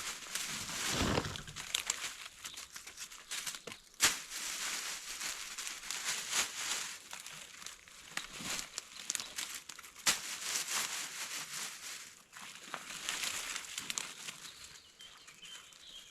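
Irregular rustling and crinkling with scattered small clicks, and two sharp snaps about four and ten seconds in.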